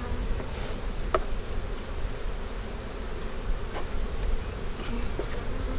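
Honey bees buzzing steadily around an opened hive, with a couple of light clicks.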